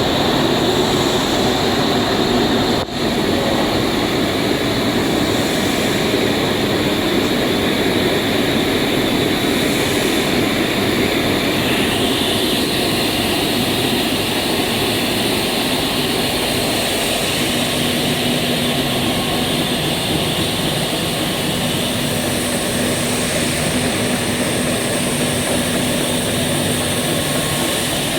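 EPE polyethylene foam sheet extrusion line running: a loud, steady machine noise, with a faint steady hum joining it past the middle.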